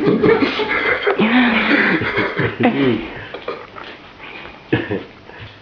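People's voices: unclear talk with some chuckling.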